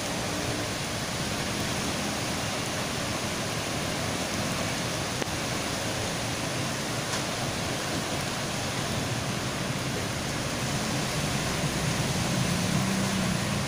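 Steady rush of a heavy downpour and running floodwater across a street. Near the end a vehicle's engine and its wash through the water grow louder.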